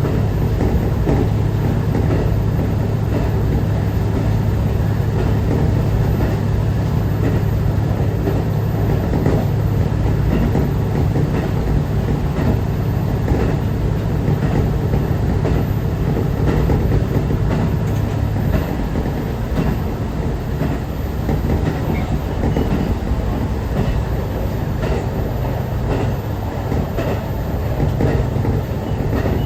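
KiHa 150 diesel railcar running along the line, heard from inside: a steady low engine drone under the rumble of the wheels, with the regular clack of wheels over rail joints. The low drone drops away about two-thirds of the way through while the wheel rumble carries on.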